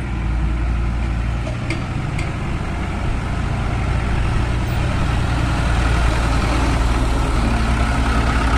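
Tractor diesel engine running steadily with a deep, even rumble.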